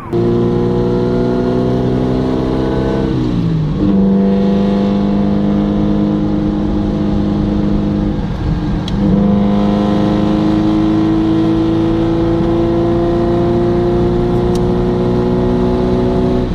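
Fiat 8V's 70-degree V8 engine pulling under load, its pitch slowly rising. About three seconds in the pitch drops at an upshift, then it climbs steadily again.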